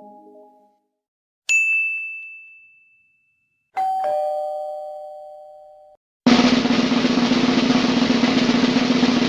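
A single high ding rings and fades, then a two-note ding-dong doorbell chime sounds, the higher note first, and then a snare drum roll starts and keeps up steadily.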